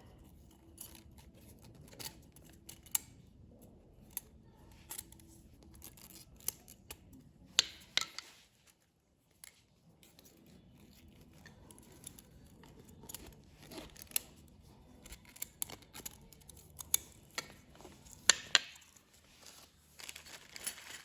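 Scattered small metallic clicks and ticks as piston rings are handled and worked into the grooves of a Hercules IXA engine piston by hand, over a faint low steady hum.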